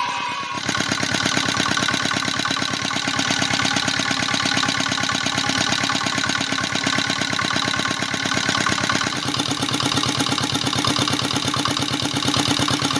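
Diesel engine, freshly repaired after cylinder-head damage, running steadily with a fast, even firing beat. It comes in abruptly just after the start, and its note shifts slightly about nine seconds in.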